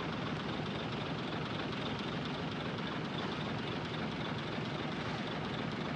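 Heavy earthmoving machinery running steadily: the diesel engine of the bulldozer or dump truck at work, a constant even drone with no breaks.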